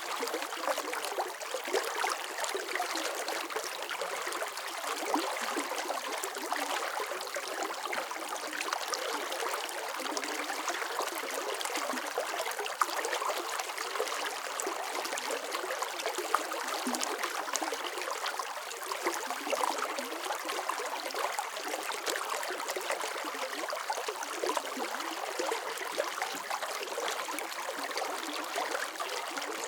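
Running water flowing steadily, a dense even rush with many small splashes and trickles, light and airy with hardly any low rumble.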